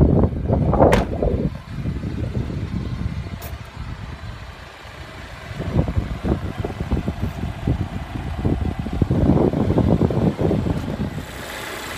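Knocks and rumbling handling noise with a sharp clunk about a second in, from the hood of a 2016 Volvo XC90 T6 being released and opened.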